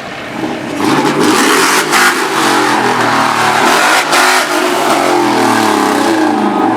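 A car or truck engine revving loudly, its pitch climbing and falling as the throttle is worked. It starts about half a second in and keeps going.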